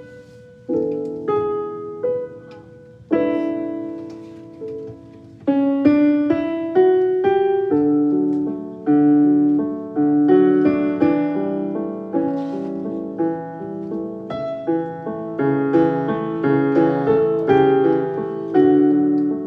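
Background piano music: gentle notes and chords, each struck and fading away.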